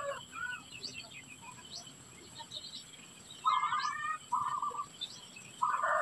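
Birds chirping and calling around a nest: thin, high chirps come throughout, with louder, harsher calls about three and a half seconds in and again at the end.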